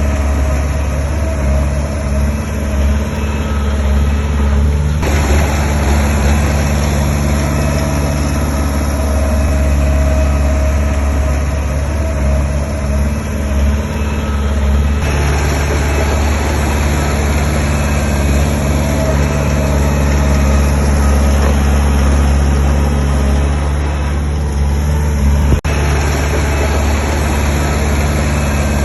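Heavy diesel construction machinery engine running steadily at a low, even hum, with the surrounding machine noise changing abruptly about 5, 15 and 24 seconds in.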